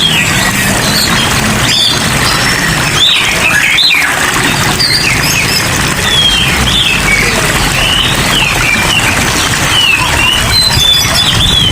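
Many caged songbirds chirping and twittering in short, quick calls over a steady hiss of falling rain.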